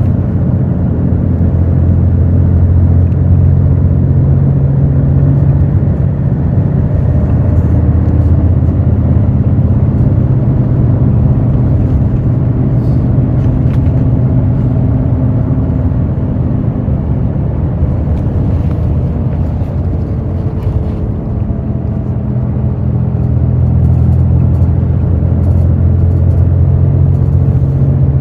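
Hino J08E-VD inline-six diesel engine of a Hino RN8JSVU bus running on the road, a steady low drone. It eases off around the middle and builds again in the last few seconds.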